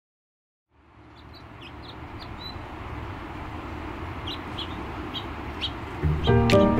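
Outdoor ambience fading in: a steady rush with birds chirping now and then. Music comes in near the end.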